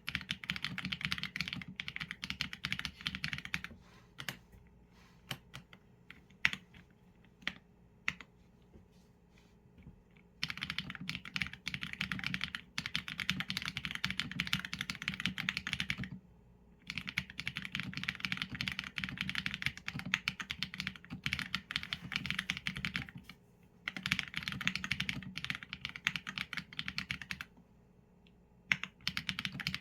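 Typing on a Qsenn A75 mechanical keyboard with Leobog Graywood v4 linear switches and PBT keycaps. It comes in fast runs of keystrokes a few seconds long, broken by short pauses, with only scattered single key presses from about four to ten seconds in.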